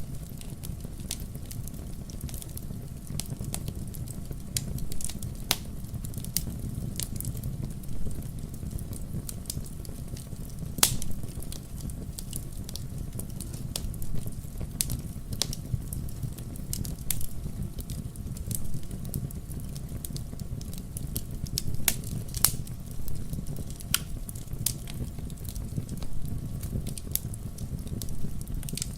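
Wood logs burning in a fireplace: a steady low rumble of the fire with irregular crackles and sharp pops, a few louder pops scattered through.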